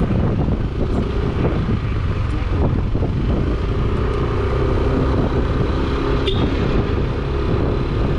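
Yamaha NMAX 155 scooter riding along a road: steady wind and road rumble over the microphone, with a faint engine hum that comes up about halfway through.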